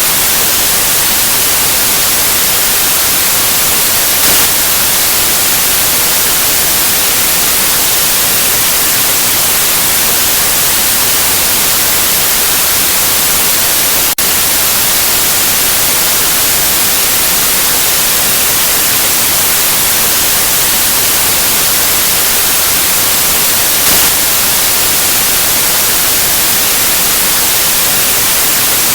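Steady white noise: an even, unbroken hiss at a constant level, with a brief tick about halfway through.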